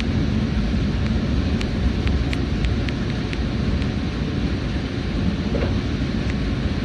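Steady running noise inside the carriage of the WEST EXPRESS Ginga, a converted 117-series electric train: a low rumble of wheels on rail, with small sharp ticks now and then.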